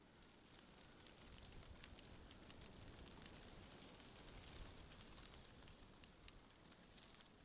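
Faint wind swelling in a gentle gust and easing off, with light rustling and scattered small crackling ticks.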